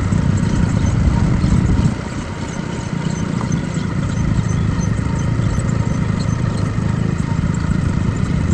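Diesel engine running steadily with a low rumble, dropping slightly in level about two seconds in.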